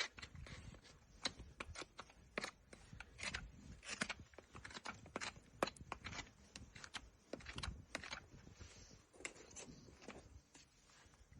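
A horse's hoof being trimmed: irregular sharp snips and cracks of hoof horn being cut, several a second, with short scraping strokes in between.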